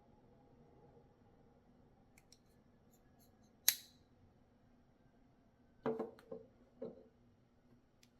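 Titanium framelock flipper knife being handled: a few faint ticks, then one sharp metallic snap of the blade, then a short cluster of duller knocks about six to seven seconds in.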